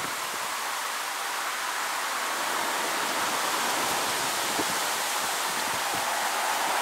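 Steady rain during a thunderstorm, an even hiss that grows a little louder near the end.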